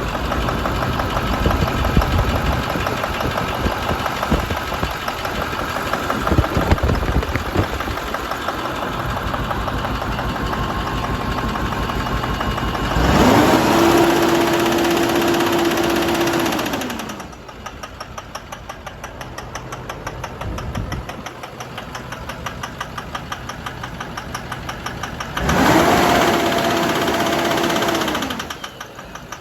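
2011 International MaxxForce 7 6.4-litre V8 twin-turbo diesel running with a rapid, regular knock, revved up twice, about thirteen seconds in and again near the end, each rev held for a few seconds before dropping back to idle. The seller lists this engine as having blow-by and knocks.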